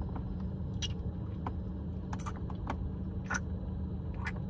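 Car engine idling, a steady low hum heard inside the cabin, with a few short sharp clicks or smacks over it.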